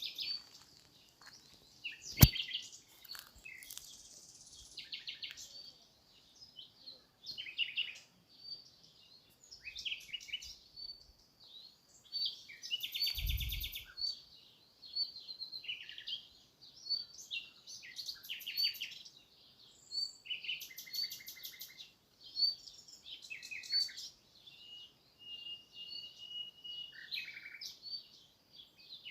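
Small birds chirping and twittering: short high notes and quick trills repeating about once a second. A sharp click about two seconds in is the loudest sound, and a brief low thump comes near the middle.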